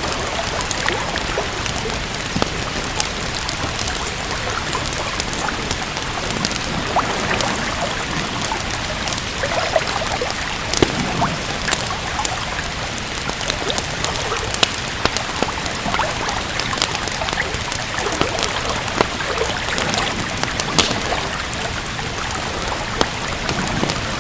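Steady rain mixed with a wood fire crackling, with frequent sharp pops and snaps over the even hiss of the rain.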